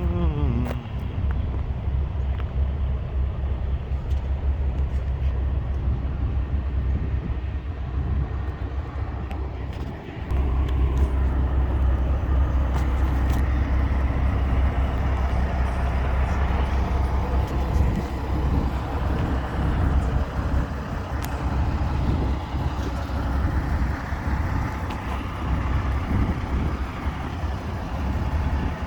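Truck engines rumbling steadily, with a falling tone right at the start and a brief drop in level about ten seconds in.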